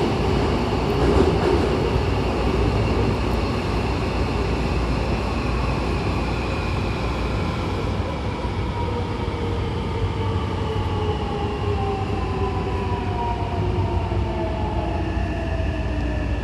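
Hankyu Kobe Line electric train running, heard from inside the car, with a steady rumble of wheels on rail. The motor whine falls slowly in pitch as the train slows for a station.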